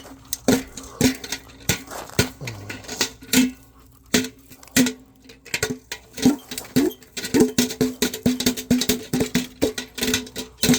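A metal pan beaten over and over, each strike ringing with a low tone, as a call to bring chickens in to feed. The strikes come quicker and closer together in the second half.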